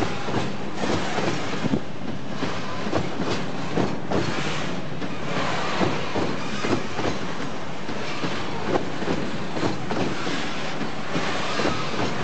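Freight train rolling past, its wheels clattering irregularly over the rail joints above a steady rumble and rush of noise.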